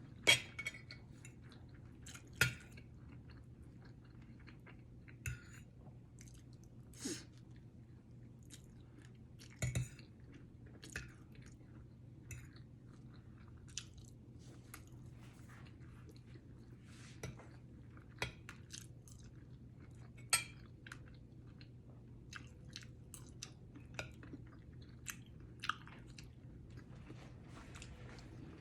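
Close-up eating sounds: a person chewing and biting food, with irregular crisp crunches and wet mouth clicks every second or two, over a faint steady low hum.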